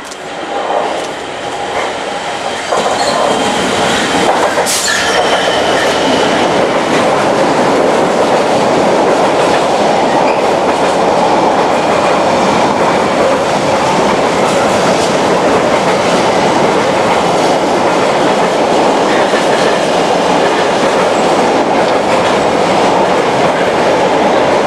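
Container freight train passing close by at speed. It grows louder as the locomotive arrives, reaching full loudness about three seconds in, then keeps up a steady rumble and rattle of wheels on the rails as the container wagons go by.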